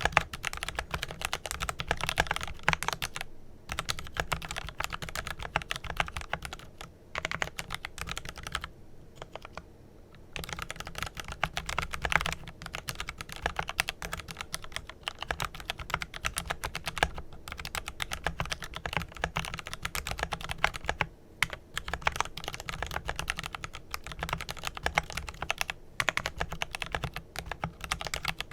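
Steady, fast typing on a Glorious GMMK Pro mechanical keyboard with lubed Kailh Pro Purple tactile switches and PBT keycaps, a dense run of key clicks broken by a few short pauses.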